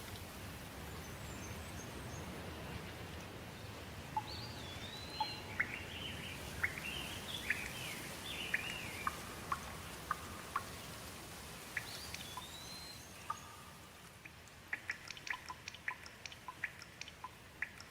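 Steady rain with birds calling over it in short whistled, gliding notes. The rain thins out near the end, leaving a run of short sharp ticks.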